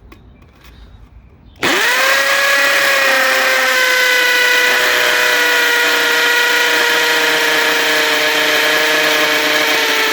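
Chicago Electric 1/2 inch corded hammer drill starting up suddenly about a second and a half in, then running steadily at high speed in hammer mode. It is drilling a 5/16 inch masonry bit into cinder block.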